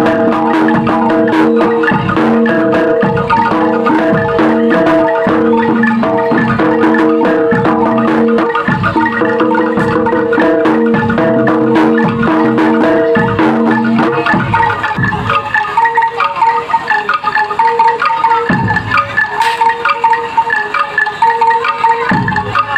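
Live mallet-percussion music: a melody of struck metal or wooden bar instruments with regular low drum strokes. About 14 s in, the lower held notes drop out, leaving a lighter, choppier beat.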